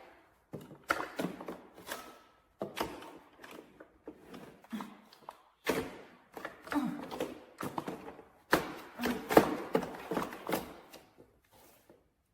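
Handling noise from a robot vacuum and its docking station being set up: a string of plastic clicks, taps and knocks with short pauses between them. The loudest knock comes about eight and a half seconds in, and no motor is running.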